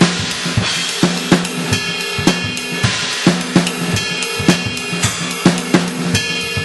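Sampled acoustic drum kit played from electronic pads with cymbal triggers through a 2Box drum module: a steady beat of kick and snare strikes, about two to three a second, under a continuous ride and hi-hat wash.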